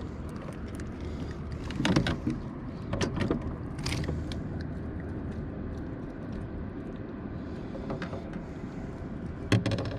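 Steady low rumble on a kayak drifting down a river, with a few sharp knocks about two, three and four seconds in and again near the end.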